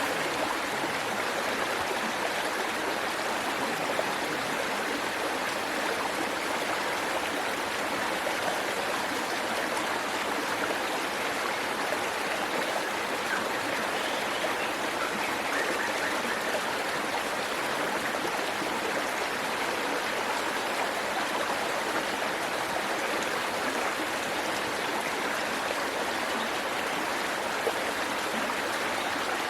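Waterfall with water rushing and splashing steadily over rocks into a stream.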